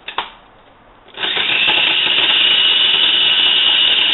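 A small electric food chopper: a couple of knocks as the shallots go in, then about a second in its motor starts and runs steadily with a high whine, chopping the vegetables for sofrito.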